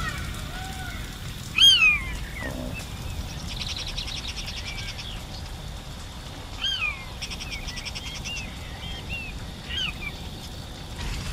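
Forest birds calling: loud arched whistled calls about two seconds in, near seven seconds and near ten seconds, with fast chirping trills in between, over a steady low rumble.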